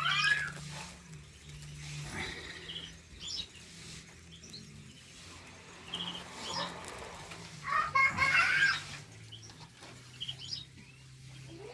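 Caged finches chirping in short scattered calls, with a louder flurry of chirps about eight seconds in, over a steady low hum.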